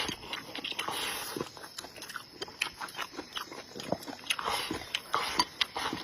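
Close-miked mouth sounds of a person eating: chewing with frequent, irregular wet smacks and clicks.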